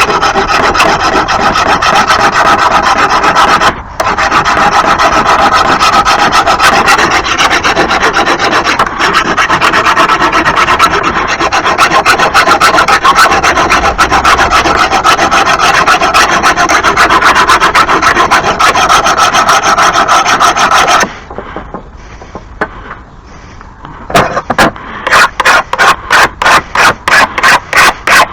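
Hand file rasping along a blade edge to sharpen it: about 20 s of fast, continuous strokes, then a short pause, then slower separate strokes about two to three a second near the end.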